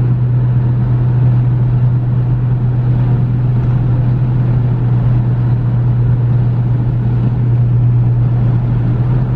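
Steady drone of a car moving at highway speed: road and engine noise with a constant low hum.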